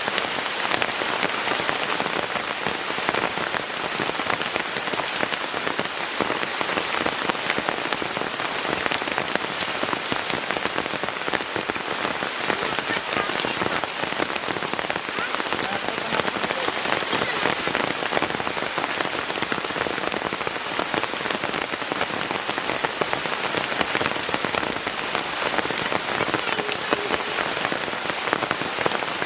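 Heavy rain falling steadily, a dense, even patter of countless drops striking a surface.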